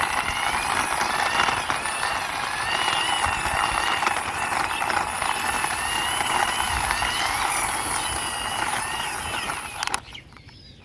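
A toy police motorbike pushed by hand along a concrete wall: a steady, gritty rolling and scraping of its small wheels with a wavering whine over it, stopping abruptly about ten seconds in.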